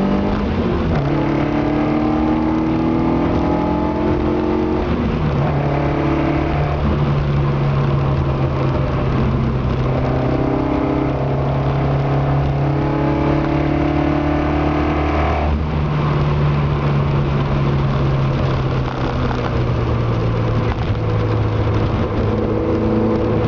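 Ford Anglia's 2.0 Zetec four-cylinder engine running as it warms up, its pitch climbing slowly and then dropping sharply several times, notably about five seconds in and again around fifteen seconds.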